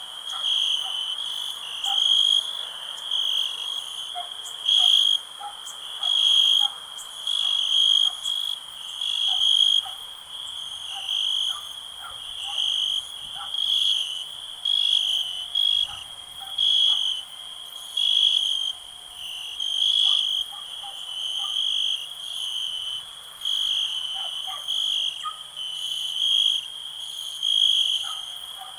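Crickets trilling steadily in a chorus, the song swelling louder about every one and a half seconds, with faint short calls scattered underneath.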